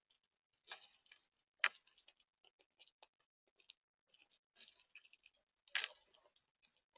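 Irregular sharp clicks and taps at a bird feeder, several in quick succession and a few louder ones: seed being pecked, cracked and knocked about by feeding birds and squirrels.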